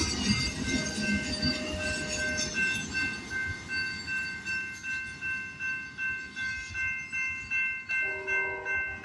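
Railroad crossing bell ringing about twice a second as a short freight train rumbles past, the train noise fading after the first few seconds. Near the end, other pitched tones join in.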